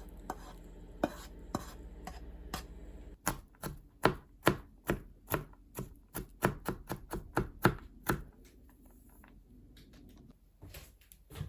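Knife chopping on a cutting board: a few scattered strokes, then a quick run of about twenty sharp chops, about four a second, that stops around two-thirds of the way through.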